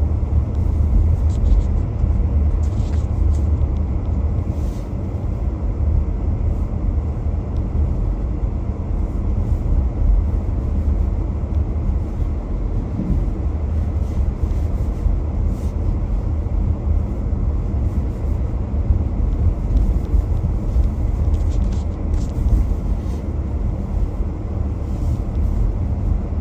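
Car driving along a city road: a steady low rumble of engine and tyre noise, with a few faint ticks now and then.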